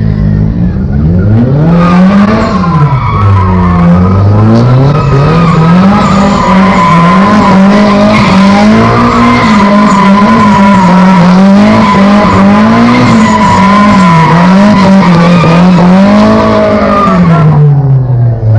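Loud car burnout: the engine revs up and down over and over while the tyres squeal continuously, starting about two seconds in and stopping shortly before the end.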